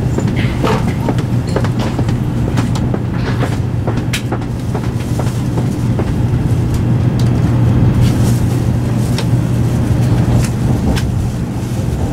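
Steady low hum and rumble of a shinkansen carriage heard from inside, with scattered light clicks and knocks.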